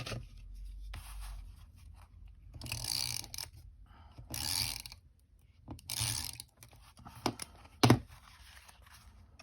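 Tape runner being drawn across a notebook cover in three short scraping strokes, laying down adhesive tape. A single sharp click near the end.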